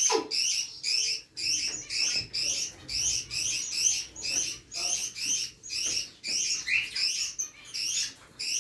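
Pet parrot calling in a steady run of short, high chirps, about two to three a second.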